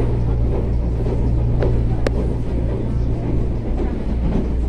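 CPTM Series 8500 electric train running along the track, heard from inside the car: a steady low rumble and hum, with a sharp click about two seconds in.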